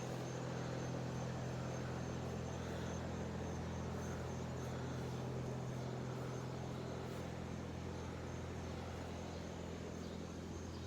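Steady low machine hum, with faint, even, high-pitched insect chirping throughout.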